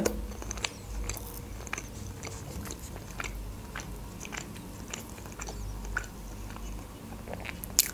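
Close-miked chewing of soft pancake: wet, sticky mouth clicks and smacks at an uneven pace, with a sharper click near the end.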